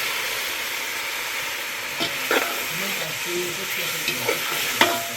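Meat and freshly added tomato sizzling in hot oil in a cooking pot: a steady frying hiss, with a few light clicks about two seconds in and again near the end.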